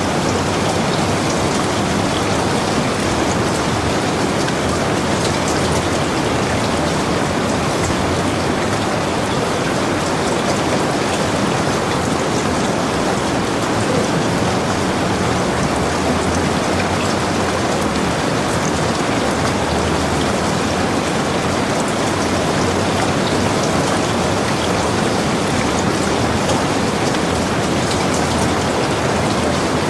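Heavy rain falling steadily: a dense, even hiss with fine scattered drop ticks, unchanging throughout.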